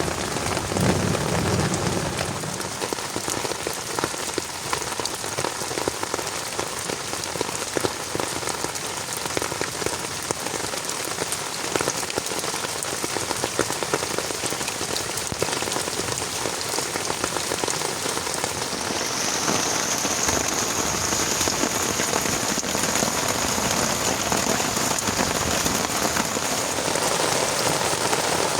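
Heavy rain falling steadily, a dense hiss full of individual drop hits. A low rumble dies away in the first couple of seconds, and a faint steady high tone comes in about two-thirds of the way through and fades near the end.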